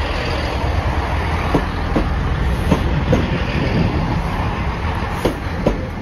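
A GWR diesel multiple unit passing close by with a steady rumble, its wheels clicking over rail joints in pairs several times as each bogie crosses.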